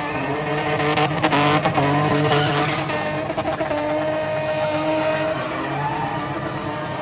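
Spinning car's engine held at high revs, the pitch stepping up about a second in and then holding fairly steady, with tyres screeching as the wheels spin.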